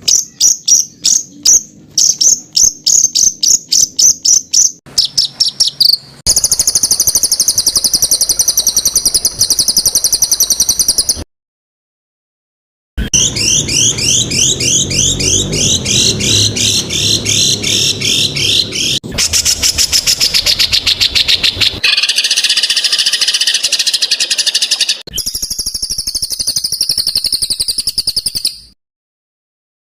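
Songbird song from a spliced tutor recording: rapid series of sharp, high repeated notes and long buzzy trills, with each clip starting and stopping abruptly and a gap of silence about eleven seconds in.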